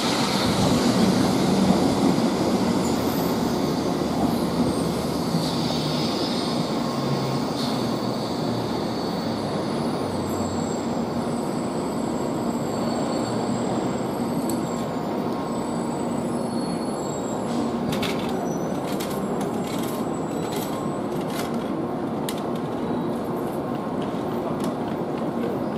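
700 Series Rail Star Shinkansen train rolling slowly into the platform and coming to a stand, with a high brake or wheel squeal in the first few seconds and a steady hum and rush of noise from the train throughout. A few light clicks come about three quarters of the way through.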